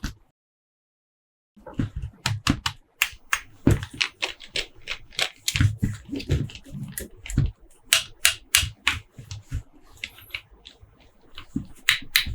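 Hands unboxing and handling toys and their packaging: a quick, irregular series of sharp clicks and taps with a few duller knocks. It starts after about a second and a half of dead silence.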